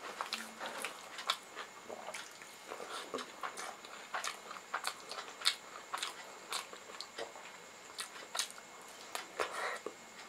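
A person eating by hand: wet chewing and mouth smacks with many irregular small clicks, along with fingers squishing rice and curry-soaked pakoda.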